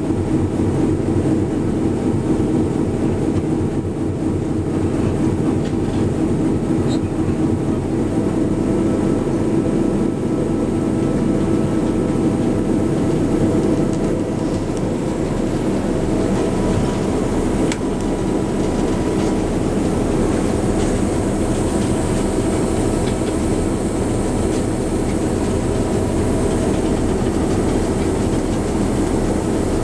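Diesel locomotive running steadily as the train moves, an even rumble with several held engine tones.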